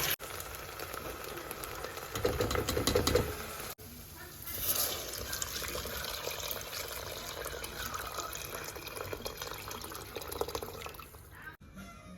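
Water running and splashing, louder for about a second a couple of seconds in, broken by two brief cuts.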